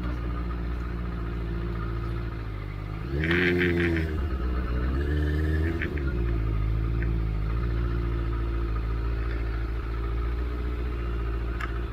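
Huanglong 600 motorcycle's inline-four engine running, revving up briefly about three seconds in, then holding a steady speed.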